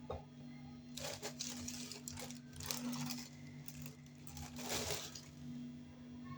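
Rustling and handling noises in bursts, typical of a plastic bread bag being opened and a slice taken out, over a steady low hum.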